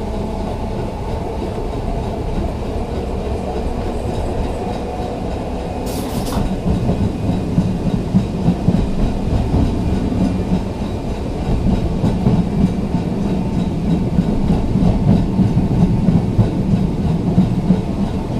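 Ex-Liverpool Corporation electric tram 869 running along the track with a steady rumble of wheels and running gear. From about halfway through, the rumble comes in uneven knocks as the wheels go over the rail. There is a short hiss about six seconds in.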